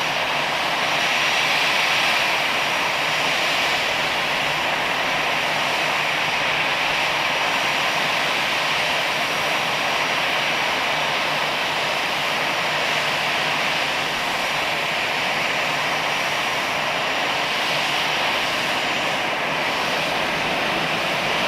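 Aircraft engines running steadily, heard as an even, unbroken rushing noise.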